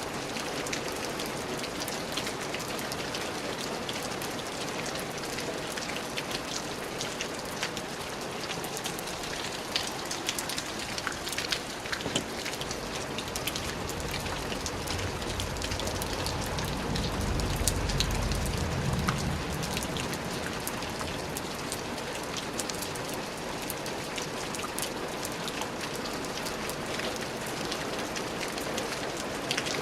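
Steady rain falling, a dense patter of drops striking a surface, with a low rumble swelling and fading about halfway through.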